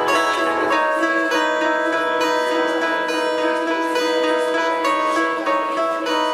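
Live band playing an instrumental passage without vocals: plucked guitar notes ring out over sustained tones. A low bass drone cuts off just under a second in.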